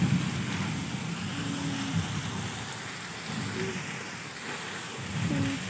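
Steady hiss of rain falling outdoors, with irregular low rumbling underneath.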